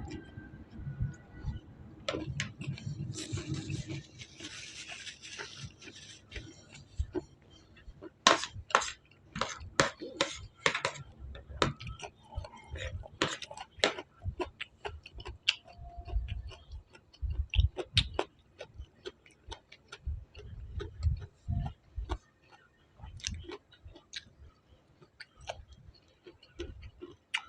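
A person eating crispy fried chicken close to the microphone: sharp crunching bites and chewing, with a dense run of crunches in the middle.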